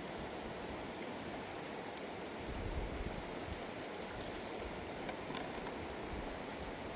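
Steady rushing of a fast mountain river. There is a brief low rumble a little under three seconds in, and a few faint clicks.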